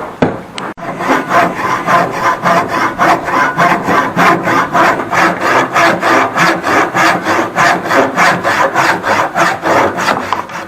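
Handsaw cutting a piece of mahogany with steady back-and-forth strokes, about three a second, stopping near the end.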